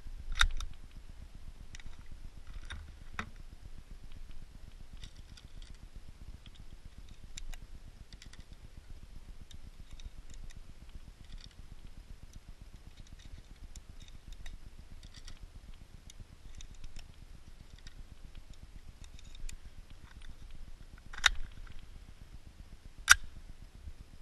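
Handling of a Zoraki 917 blank pistol: scattered small metallic clicks, with a louder clack about half a second in and two more near the end.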